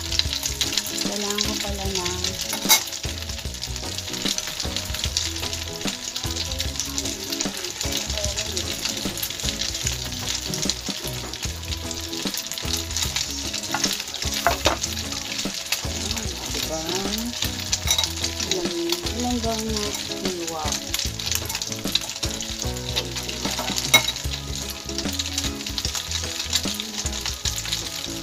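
Egg-coated slices of tikoy (sticky rice cake) sizzling and crackling steadily in hot oil in a frying pan. Two sharp clicks stand out, about three seconds in and near the end.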